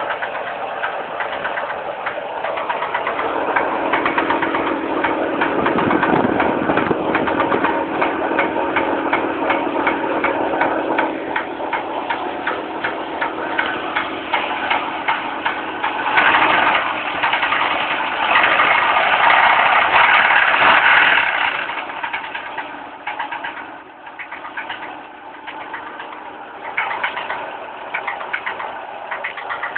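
Fiat Marea engine running with a rapid, even ticking rattle, louder for a few seconds past the middle; an abnormal engine noise whose cause the owner does not know.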